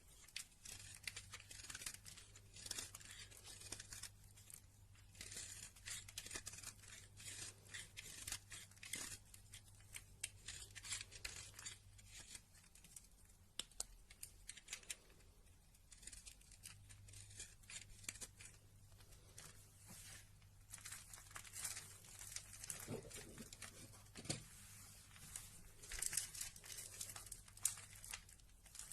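Faint, irregular crinkling and tearing sounds with many small crackling clicks, over a low steady hum that drops out for a few seconds around the middle.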